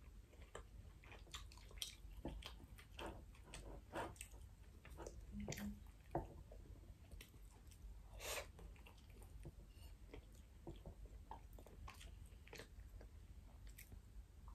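Faint close-up chewing and mouth sounds of a person eating rice and salmon, with many small wet smacks and clicks scattered throughout.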